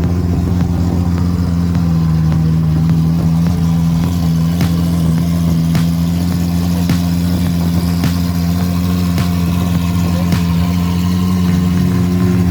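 A car engine idling steadily at a constant pitch. From a third of the way in, sharp ticks come about once a second.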